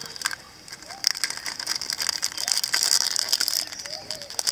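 Crumpled metallic foil wrapper crinkling as it is lifted out of a plastic egg and handled, a dense crackle that starts about a second in.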